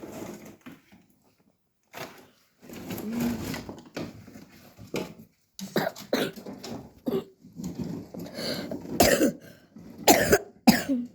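A person's voice in short irregular bursts: coughing several times and clearing the throat, the loudest coughs near the end.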